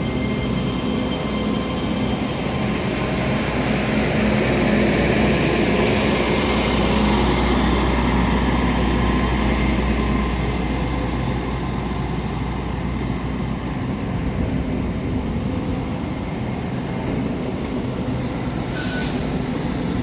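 A Great Western Railway IET (Intercity Express Train) departing, its engines running steadily under the rumble of the coaches rolling past. The sound swells through the middle and eases off again. There is a short hiss near the end.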